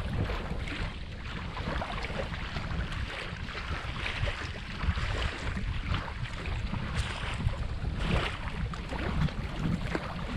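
Wind blowing on the microphone in an uneven low rumble, with a steady rushing hiss of wind over it.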